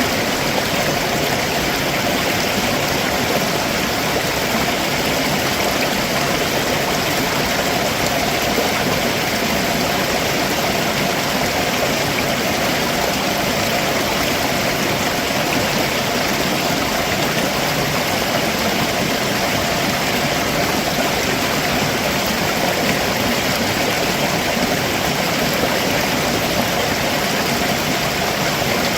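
Stream water running over rocks below a waterfall: a steady, even rush with no changes.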